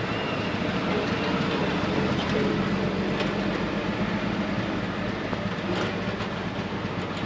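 A vehicle running with a steady rumble, with a few faint clicks over it.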